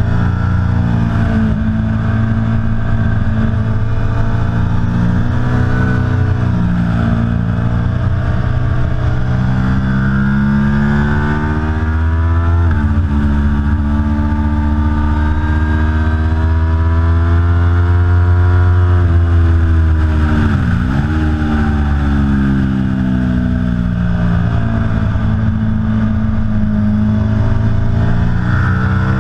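Aprilia Tuono V4 Factory's 65-degree V4 engine running hard on a race track, its pitch climbing and falling with throttle and gear changes. There is a sudden step down in pitch about halfway through, and a quick deep dip and recovery about two-thirds of the way through.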